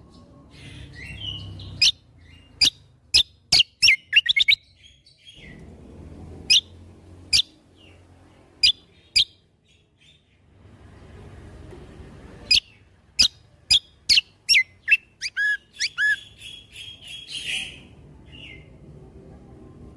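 Kecial kombo (cucak kombo) songbird singing in full voice: runs of loud, very short, sharp whistled 'shot' notes, in three bursts, the last ending in a short buzzy trill.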